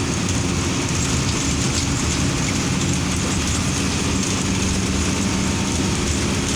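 Large bus diesel engine running steadily under a haze of road and wind noise.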